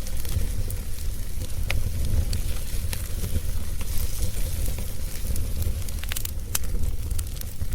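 Wood fire burning, with scattered sharp crackles and pops over a steady low rumble of the flames, and a quick run of pops about six seconds in.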